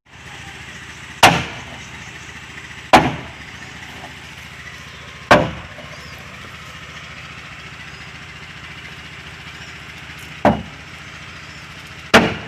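Hammer blows on wooden boat planking: five single sharp knocks at uneven intervals, each ringing briefly, over a steady low hum.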